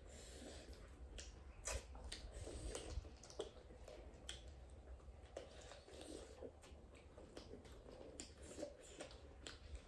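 Faint chewing with scattered small sharp clicks.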